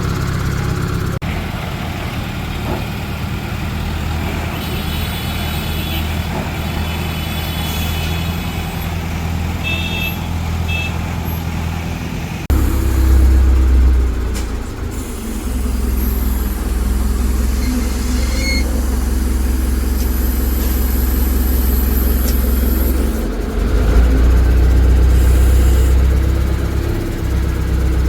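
Heavy diesel engine running steadily at a low pitch. About twelve seconds in, the note suddenly becomes louder and deeper.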